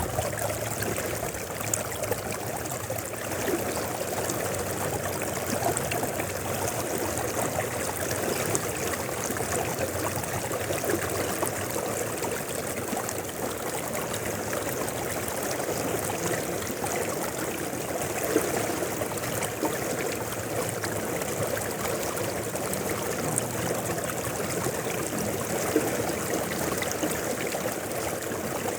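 Mountain river flowing steadily, a continuous rush of water with brief louder splashes here and there.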